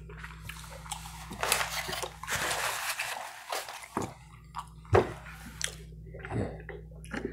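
Close-miked chewing: soft, wet mouth sounds with a few short lip-smacking clicks, and a couple of seconds of louder hissy noise in the middle.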